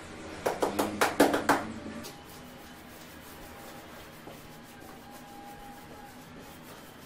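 About six quick rubbing strokes in a row over about a second, followed by a low steady background.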